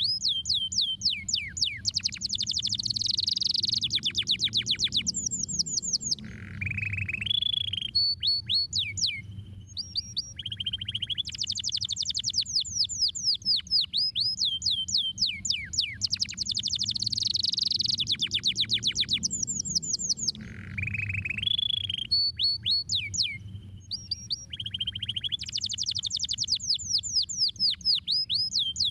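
Domestic canary singing a long song of rapid falling chirps, trills and rolls, the same sequence of phrases repeating about every fourteen seconds. A steady low hum runs underneath.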